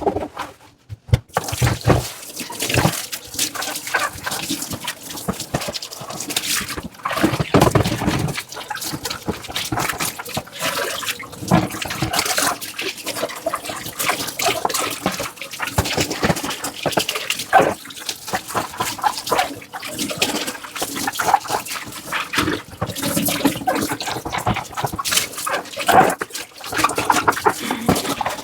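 Dishes being washed by hand at a sink: running water, with frequent clinks and knocks of dishes and the sound of scrubbing.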